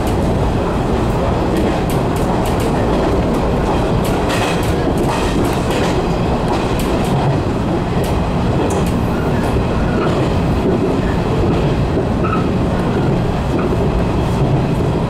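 JR Kyushu 415 series electric train running along the track, heard from inside the cab: steady rumbling running noise with occasional clicks from the wheels on the rails.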